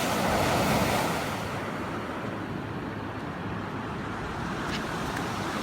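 Ocean surf washing onto the beach as a steady rush, loudest in the first second, with wind on the microphone.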